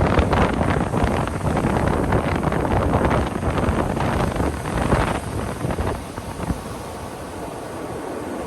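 Ocean waves breaking and washing up the shore, a loud rushing wash that eases off about five seconds in to a quieter hiss, with wind rumbling on the microphone.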